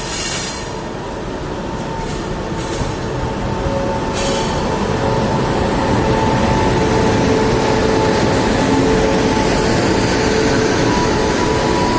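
Passenger train running through at speed. The rumble of its wheels on the track builds over the first half and then holds loud and steady.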